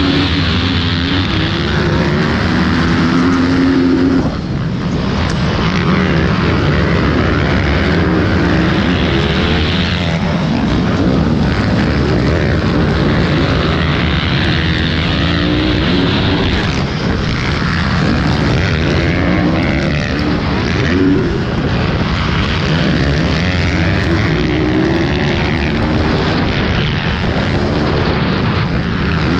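Pit bike engines racing, the buzz of small single-cylinder motors repeatedly revving up and dropping back through gear changes.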